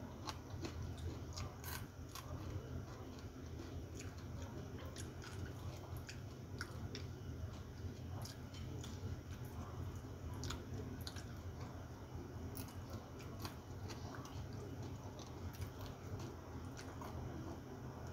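Close eating sounds: chewing and soft mouth clicks and smacks, scattered all through, over a steady low hum.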